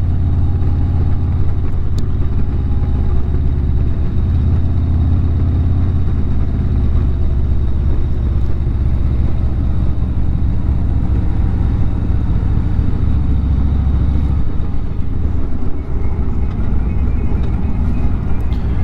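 Harley-Davidson motorcycle's V-twin engine running steadily as the bike rides along, a deep low-pitched sound.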